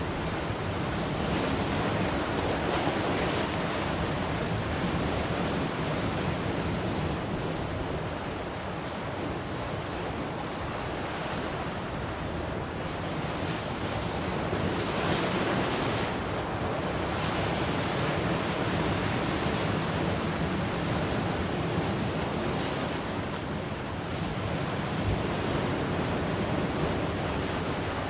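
Ocean surf washing ashore in a continuous rush, swelling and easing as waves break every several seconds, with some wind on the microphone.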